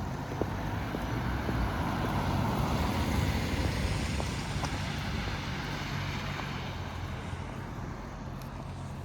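Road traffic noise: a vehicle passing, its tyre and engine noise swelling to a peak about three seconds in and then fading, over a steady low engine hum.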